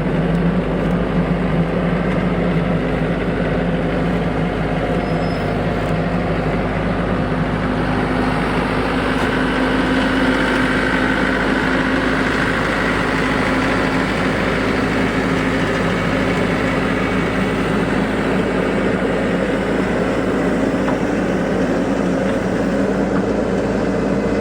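TYM tractor's diesel engine running steadily, with a constant low hum and no change in speed.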